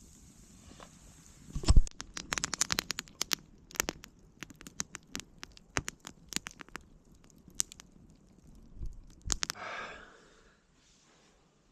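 Campfire of pine wood crackling with sharp, irregular pops, after a dull thump about two seconds in; a short rustle near the end.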